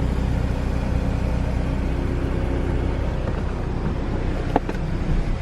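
Steady low rumble of a car idling, with a short click about four and a half seconds in.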